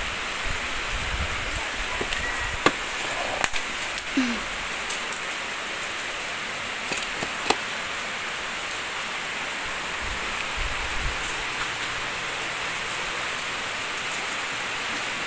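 Heavy typhoon rain falling steadily as a constant hiss. A few sharp knocks or clicks stand out, the loudest about two and a half seconds in.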